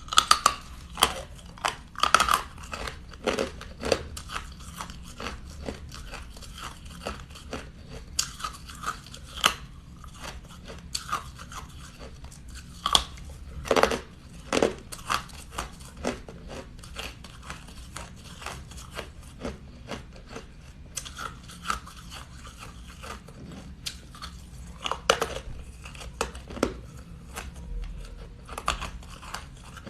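Crunchy ice being bitten and chewed close to the microphone: a run of sharp, irregular crunches and crackles, with the loudest bites about two seconds in, around thirteen to fourteen seconds, and again near twenty-five seconds.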